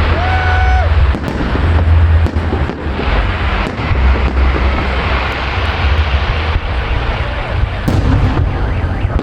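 Fireworks display: continuous booming with a dense spread of sharp cracks, and a short whistle near the start.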